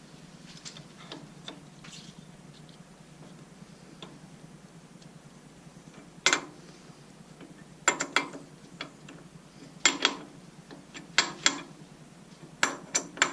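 Sharp metallic clicks and clanks, several in quick pairs over the second half, from lathe parts and tools being handled and tightened while the blank is set up for facing. A faint steady hum runs underneath.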